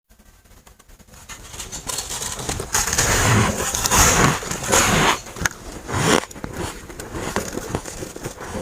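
Freezer frost being bitten and chewed close to the microphone: dry, squeaky crunching that builds up, with several louder crunches in the middle.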